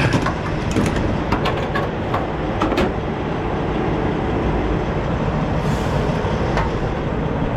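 Semi-truck diesel engine running steadily, with several sharp clicks and knocks during the first few seconds.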